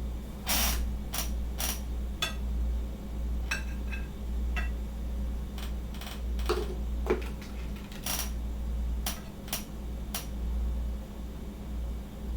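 Kitchen utensils and dishes clinking and tapping: about fifteen separate sharp clicks and knocks scattered unevenly, over a steady low hum.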